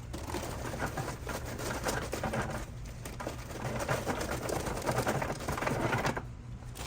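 Kingsford Applewood charcoal briquettes being poured into a metal charcoal hopper, a dense rattling clatter that eases off about six seconds in.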